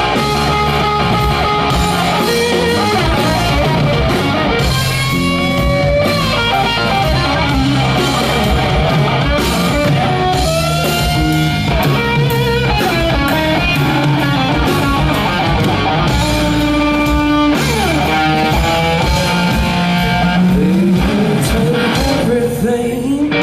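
Live rock band playing, led by an electric guitar playing a lead part with bending, gliding notes over the rest of the band.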